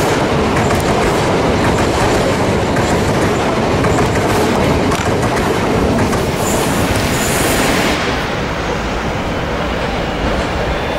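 Southern Class 377 Electrostar electric train passing close by at speed: a loud, steady rush of wheels on rail with clicking over the rail joints. About eight seconds in the last coach goes by and the noise eases to a fading rumble.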